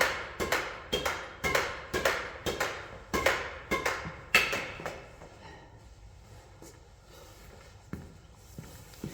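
Sharp knocks with a short ring, evenly spaced about twice a second, stopping about four and a half seconds in; after that only low background noise with a few soft taps.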